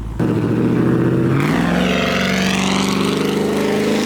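A performance car's engine accelerating hard under full throttle. It comes in loud and sudden, then the note climbs steadily as the revs rise through the gear.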